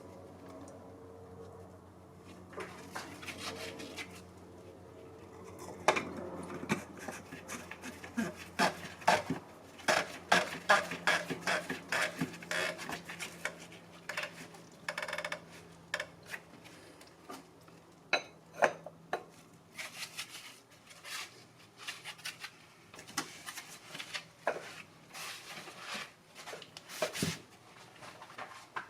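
Repeated small clicks, clinks and rattles of hard parts and tools being handled during work on the oil filter housing cap, with a faint steady hum under the first half.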